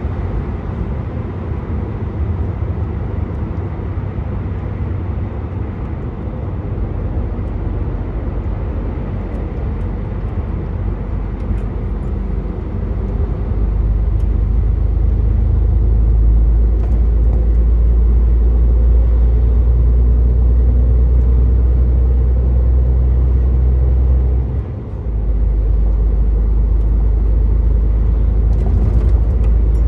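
Truck's diesel engine and tyre noise heard from inside the cab, a steady low rumble. It grows louder a little under halfway through and dips briefly once near the end.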